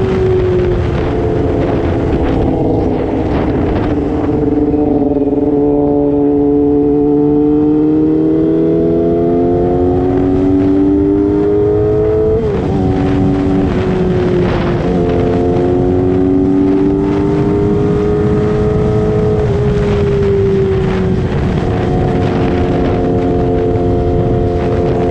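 Sport motorcycle engine pulling under load while riding, its pitch climbing slowly and dropping briefly at gear changes about twelve, fourteen and nineteen seconds in, over steady wind and road noise.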